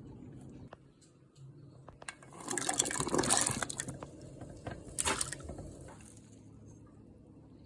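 Chicken wild rice soup sloshing and splashing in two bursts: a longer one about two seconds in and a short one about five seconds in.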